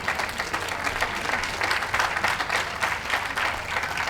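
Audience applauding: a crowd clapping steadily, many hands at once.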